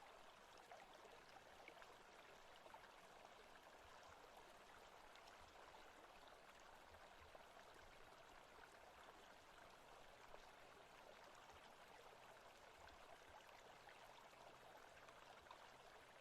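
Faint forest ambience: a stream running steadily, with a few soft scattered ticks.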